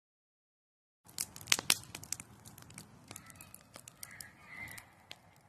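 Irregular crinkling and rustling with sharp clicks, starting after about a second of dead silence, the loudest clicks coming early on.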